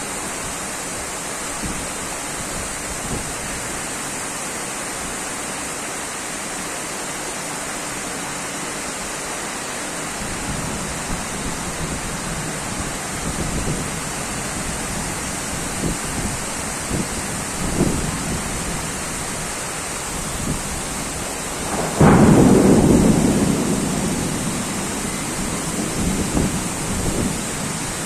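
Heavy rain falling steadily as a constant hiss, with low rumbles of thunder through the second half and one loud thunderclap about 22 seconds in that rolls away over several seconds.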